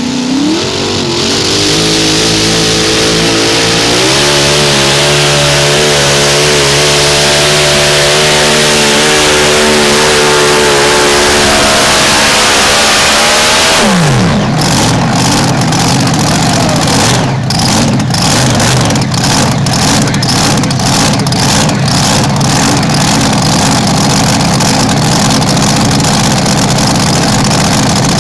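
Modified mini pulling tractor's engine at full throttle through a pull. The pitch climbs at the start, steps higher about four seconds in and holds steady. About fourteen seconds in it drops sharply as the throttle comes off, and a rougher, crackling engine sound carries on after that.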